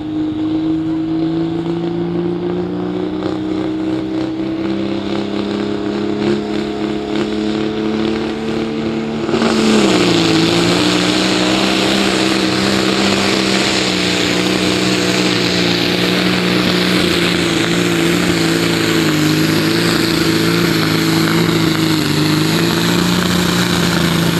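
Pro Stock pulling tractor's diesel engine being brought up slowly on the start line, its pitch climbing gently. About nine seconds in it goes to full power as the pull starts: much louder, with a hissing rush, and the pitch drops and holds steady under the load of the brake sled.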